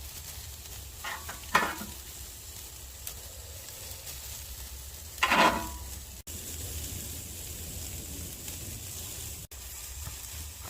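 Tomahawk rib-eye steaks sizzling steadily on a charcoal grill. Two short, sharp clanks sound about a second and a half in and again near the middle, the second the louder.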